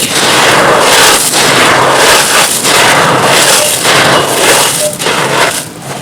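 Dry, dusty crumbly chunks being crushed and crumbled, a loud, dense, continuous crackling crunch with a few brief let-ups, easing off near the end.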